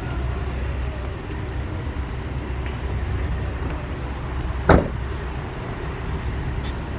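Steady low rumble of a car's engine and running gear, with one sharp knock a little before the five-second mark.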